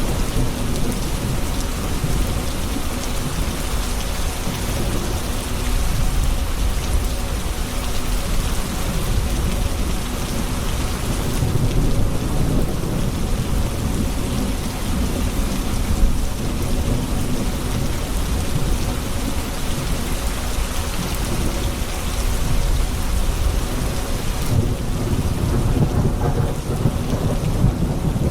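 Heavy rain falling steadily, with rolling thunder rumbling underneath that swells and fades several times.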